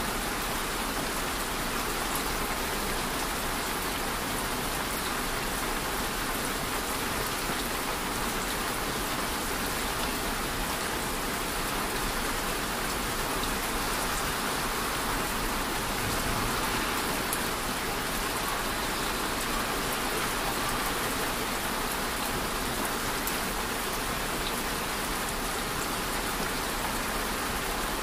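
Steady rain falling: an even, continuous hiss of many drops, with no breaks or changes.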